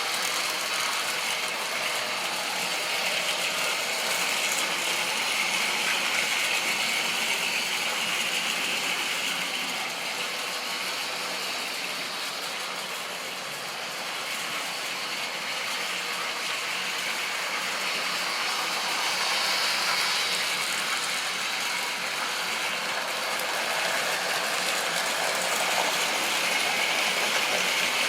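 A model railway train running on the track: the small motor, gears and wheels on the rails make a steady whirring rattle. It gets louder and softer by turns, softest about halfway through and swelling again near the end.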